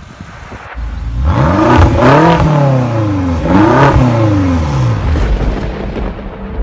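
Porsche Cayenne Turbo's 4.8-litre twin-turbo V8 revved twice from idle, starting about a second in. Each time the pitch rises and falls back. It then settles back to a steady idle.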